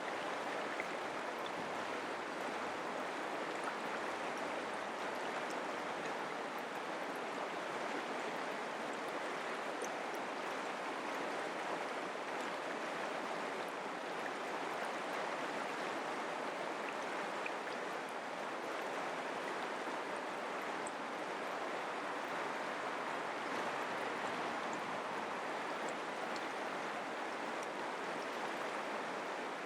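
Mountain creek flowing over rocks: a steady rushing and babbling of water.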